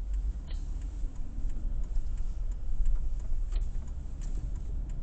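Low rumble of a car heard from inside the cabin, with faint ticks through it.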